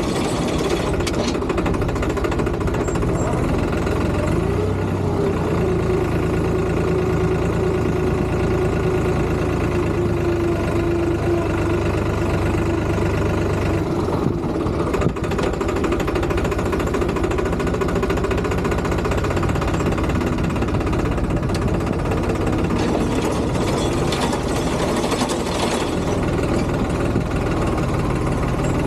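Tractor engine running steadily, its note changing about halfway through.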